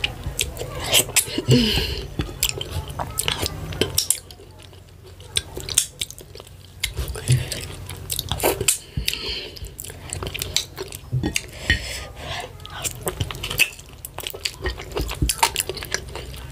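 Close-miked chewing and wet mouth smacks of someone eating fufu with ogbono and ewedu soup, with frequent sharp clicks and the odd clink of dish or utensil. It eases off for a couple of seconds about four seconds in.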